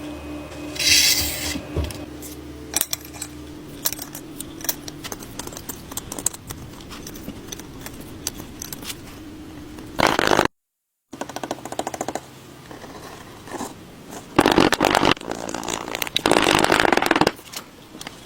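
Small metal pieces clinking and ticking as they are handled, with several bursts of harsh scraping noise.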